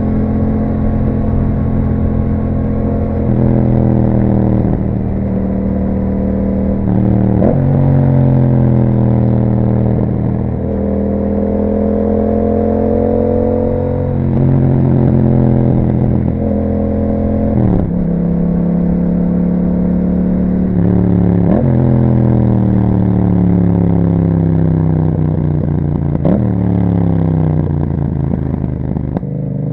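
Yamaha MT-07's parallel-twin engine through an aftermarket Akrapovic exhaust with dB killer, on the move. The engine note climbs and falls with throttle, with a sudden pitch drop at several gear changes, about five times, and a long easing-off fall in pitch in the second half.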